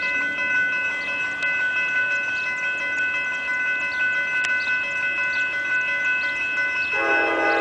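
Railroad grade-crossing bell ringing steadily at about two strikes a second over rain hiss. About seven seconds in, the approaching Amtrak passenger locomotive's multi-chime horn starts blowing.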